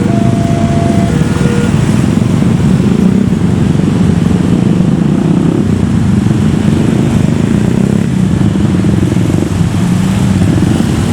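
A train passing close by, loud with a fast, dense low rumble that stops abruptly near the end. In the first second or so a level-crossing alarm sounds two alternating steady tones.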